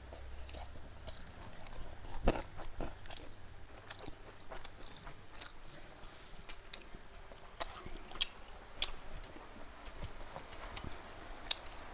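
Close-up eating sounds: chewing and biting with scattered small crunches and wet mouth clicks, including a louder knock a little over two seconds in.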